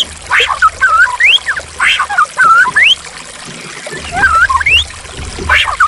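White-rumped shama song: quick rising whistles and curling notes mixed with harsh chattering bursts, over a steady trickle of running water.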